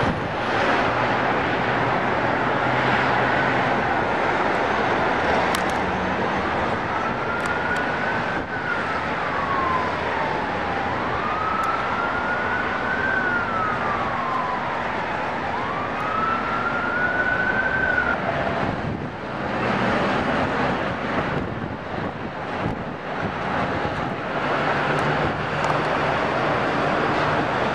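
An emergency vehicle siren wails faintly in slow rising and falling sweeps, under a steady, loud rushing noise. The siren dies away after about eighteen seconds.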